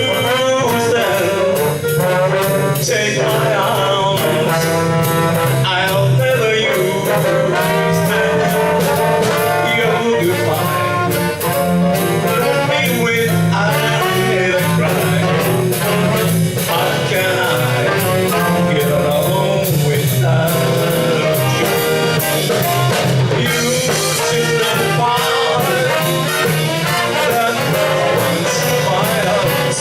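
A jazz band playing an instrumental chorus led by brass, with trombone and trumpet lines over a steady beat from the rhythm section.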